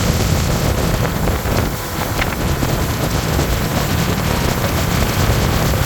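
Speedboat running at speed: a steady roar of the motor and rushing water, with wind buffeting the microphone.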